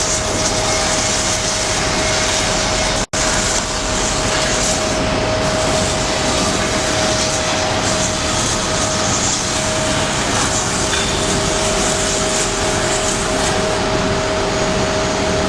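Veneer edge grinding machine running: a loud, steady mechanical noise with a constant whine. A second, lower whine joins about ten seconds in, and the sound drops out for an instant about three seconds in.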